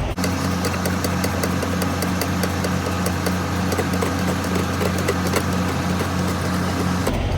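Semi truck's diesel engine idling steadily, with a fast, even pulse and light regular ticking.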